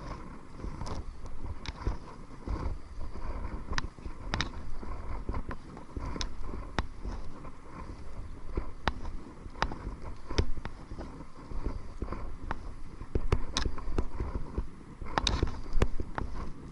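Kayak paddling into the wind: wind rumbling on the microphone, with irregular sharp knocks and clicks from the paddle against the kayak and water.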